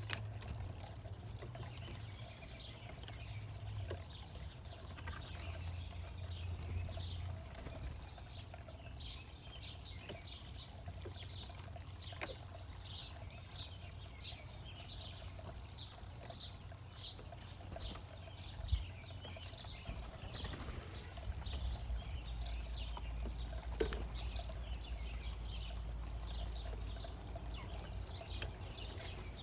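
Small backyard birds chirping: a steady run of short, high, falling chirps, several a second, over a low steady rumble.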